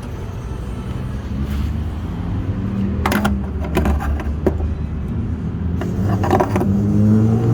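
A car engine running steadily, with several sharp metallic clinks and scrapes. Near the end the engine note rises.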